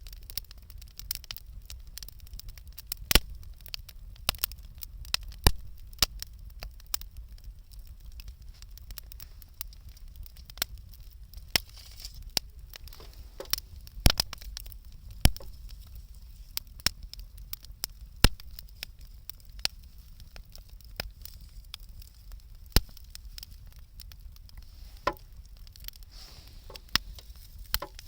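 Wood bonfire crackling, with irregular sharp pops and snaps, a few much louder than the rest, over a low steady rumble.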